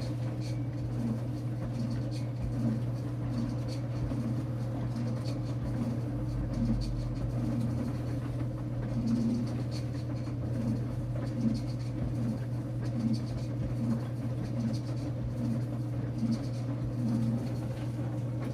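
Enxuta Luxo Soft washing machine running with a load of towels: a steady motor hum with a rhythmic pulse repeating a little more than once a second.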